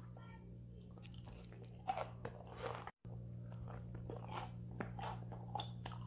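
Close-up chewing of crunchy deep-fried chicken gizzards: faint, irregular crunches and bites. A low steady hum runs beneath.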